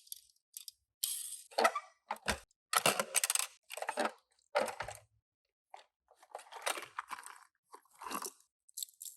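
Toy car packaging being handled and opened: a string of irregular crinkling, rustling bursts, a few with a soft knock.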